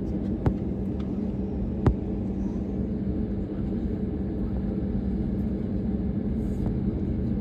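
Steady low rumble of an airplane's engines with a constant hum, broken by two sharp clicks, about half a second and two seconds in.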